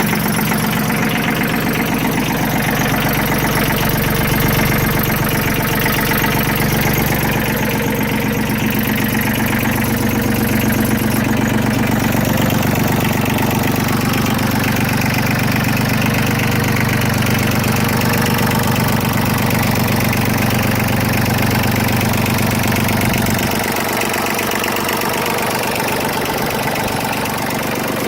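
Yanmar F165D compact tractor's diesel engine idling steadily just after a start, running evenly; it drops a little in level about 23 seconds in. It sounds really nice.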